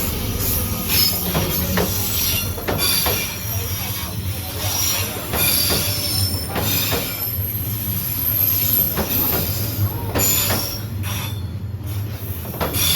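A train rolling past at close range: a steady low rumble, repeated clacks of the wheels over the track, and high metallic squealing from the wheels on the rails.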